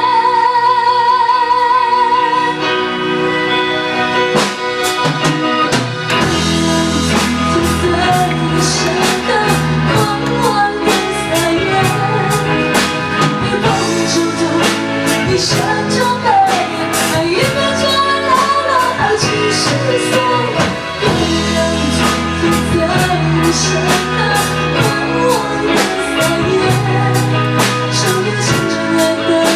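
A live band plays a Mandopop ballad. A long note with vibrato opens, then the drum kit, bass and guitar pick up a steady beat under a moving melody line.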